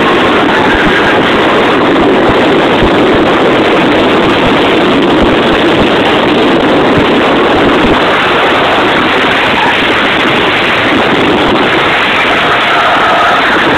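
Mazda RX-8's twin-rotor Renesis rotary engine running hard, very loud through the in-car camera microphone, mixed with wind noise.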